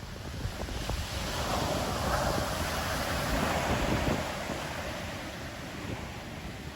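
Ocean waves breaking on the shore: one wave's wash swells about a second in and eases off after about four seconds, with wind rumbling on the microphone.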